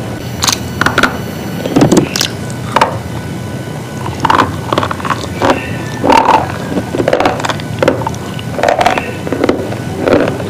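Crisp crunching and cracking of brittle slate-like pieces being broken, in irregular sharp snaps several times a second over a steady low hum.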